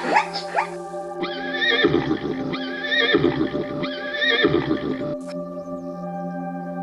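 A horse whinnying: a sharp rising squeal at the start, then three shorter wavering calls about a second apart, over a steady ambient music drone.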